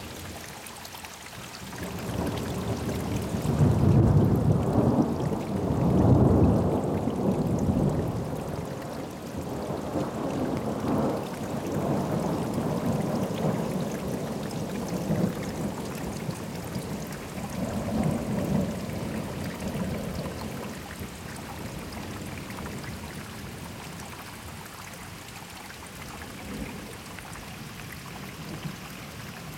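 Thunder rolling in long, deep rumbles, loudest a few seconds in, with further rolls later that fade away toward the end, over a steady hiss of rain.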